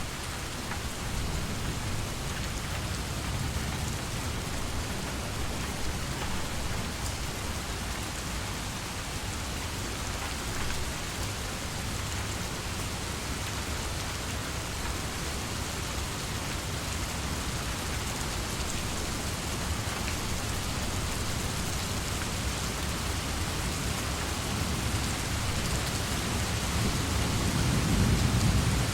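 Steady rain falling, an even hiss of drops, with a low rumble of thunder building near the end.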